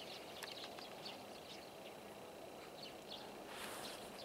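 Faint outdoor ambience with scattered short, faint bird chirps and a brief high hiss near the end.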